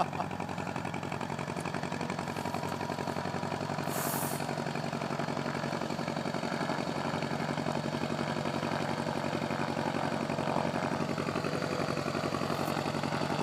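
1967 Cessna 150's four-cylinder Continental O-200 engine idling steadily with an even pulse. A brief hiss comes about four seconds in.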